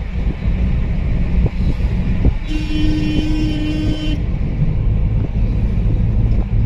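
Steady low rumble of a moving road vehicle. A horn sounds once, held steady for about a second and a half, midway through.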